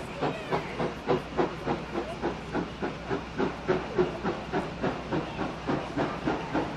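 Steam locomotive (GWR 2-8-0 tank No. 4270) working, its exhaust beats coming evenly at about three to four a second over a steady hiss of steam.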